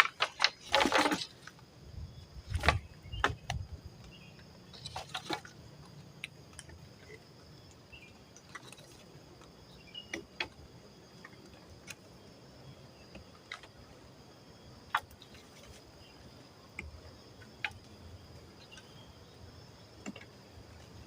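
Irregular knocks, clicks and a short rustle from hands handling gear or wood, loudest in the first five seconds and then sparse. A thin steady insect tone runs underneath.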